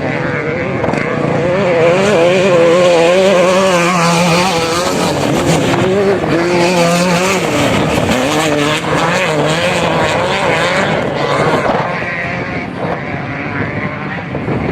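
Off-road vehicle engine running under load, its pitch rising and falling over and over with the throttle, over a rushing noise.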